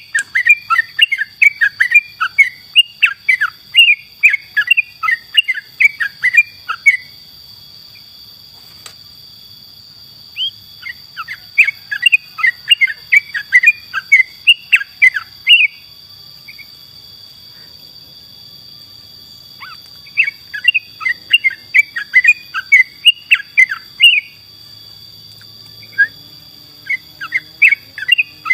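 Yellow-vented bulbul (trucukan) singing in lively runs of rapid, bubbly chirping notes, several phrases a few seconds long with short pauses between. Under it runs a steady high-pitched whine.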